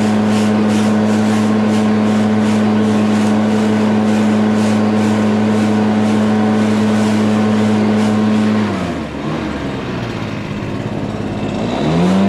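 Lawn mower engine running at a steady speed, then slowing sharply, falling in pitch, about nine seconds in, and speeding back up near the end.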